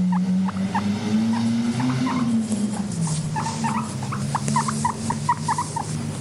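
Guinea pigs making a low, steady rumbling purr that swells up in pitch briefly about two seconds in, over many short, high squeaks that come thicker in the second half.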